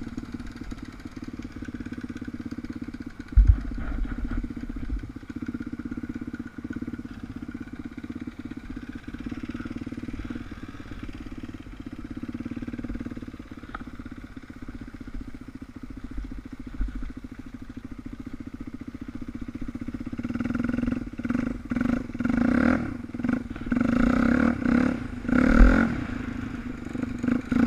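Suzuki DR350's single-cylinder four-stroke engine running steadily at low revs, heard from a camera on the bike. A sharp thump comes a few seconds in, and in the last third the engine gets louder in uneven bursts of throttle with knocks.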